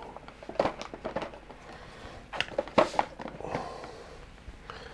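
Several short plastic clicks and knocks of paint pots being handled and set down on a desk.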